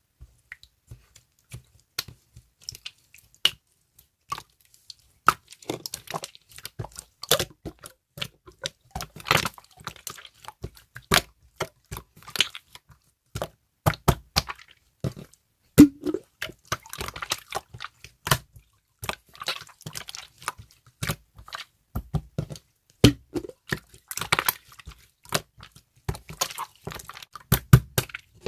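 Slime being squeezed, pressed and stretched by hand, making a quick, irregular run of sticky clicks, pops and squishes.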